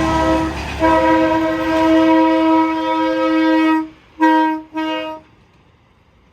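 Multi-note air horn on a semi truck sounding a chord: a blast that breaks briefly about half a second in, a long blast of about three seconds, then two short toots, over low traffic rumble that fades away.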